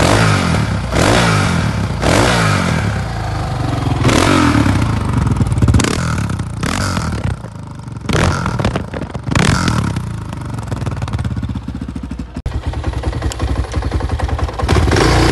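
Honda XR650R's big single-cylinder four-stroke engine running, blipped up in short revs every second or two through the first ten seconds, then ticking over more steadily before another rev near the end.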